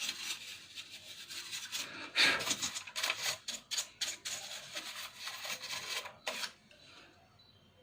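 Dust being scrubbed off a plastic laptop casing: quick, irregular rubbing strokes that stop about six and a half seconds in.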